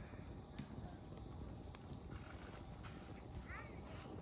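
Open wood campfire burning with a low steady rumble and a few sharp crackling pops of firewood, with faint voices far off and a short chirp about three and a half seconds in.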